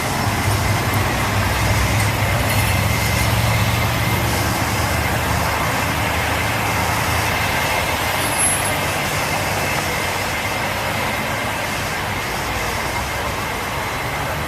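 A steady low rumble over outdoor urban background noise, fading somewhat after about nine seconds.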